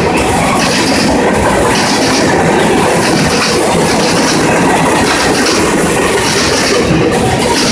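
Freight train's covered hoppers and tank cars rolling past, a steady, loud noise of steel wheels running on the rails.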